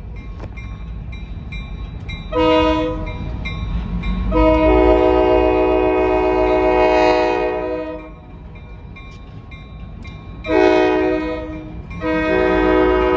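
Locomotive air horn sounding a chord of several notes in four blasts: a short one, a long one, another short one, and a long one that runs on. A low rumble of the train continues between the blasts.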